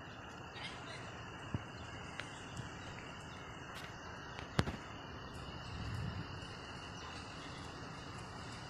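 Outdoor background noise with a faint steady high-pitched whine, scattered sharp clicks (one much louder about halfway through), and a brief faint low rumble about six seconds in.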